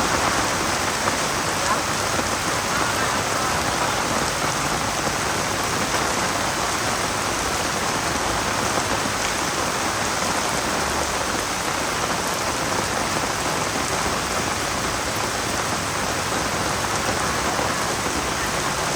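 Steady rain falling, an even hiss of many drops that keeps on without a break.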